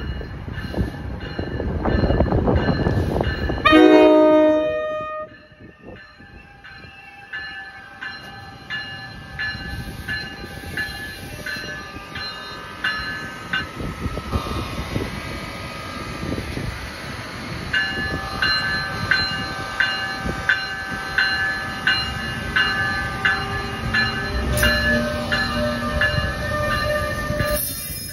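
New Jersey Transit electric-locomotive-hauled train passing close by. It gives a horn blast of about a second roughly four seconds in, then the wheels click over rail joints about twice a second, with steady high-pitched tones running under the clicks.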